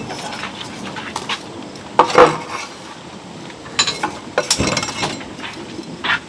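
Dishes and utensils clinking and knocking: a scatter of separate sharp clinks, loudest about two seconds in and again a little after four seconds.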